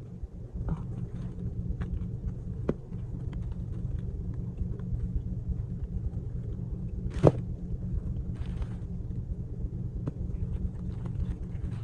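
Steady low rumble with a few light clicks and one sharp click about seven seconds in.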